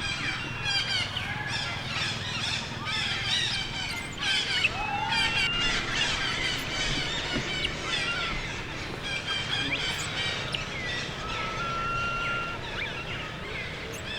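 Young monkeys squealing and chirping: many short, high-pitched cries that overlap, some sliding up or down in pitch, with one longer held call about twelve seconds in. The cries are a baby monkey begging its mother for milk.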